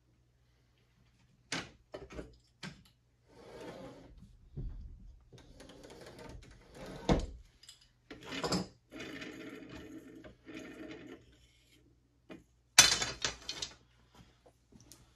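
Wooden arrow shafts and tools being handled at a workbench: scattered light knocks and clicks with rubbing or scraping between them, and a quick run of sharp clatters near the end.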